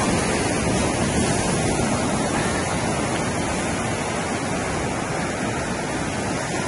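Steady rush of surf on the beach, an even roar that barely changes.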